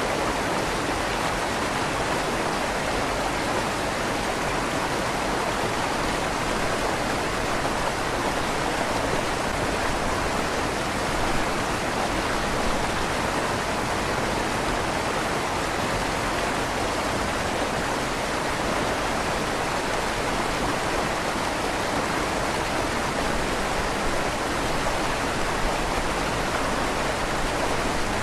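River water flowing steadily through the tunnel under a stone bridge, a constant rushing with a slight echo off the tunnel walls.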